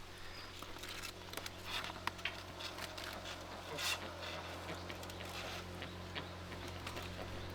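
Light rustling and scattered small clicks of dried fish being handled and dropped into a woven back basket, over a steady low hum.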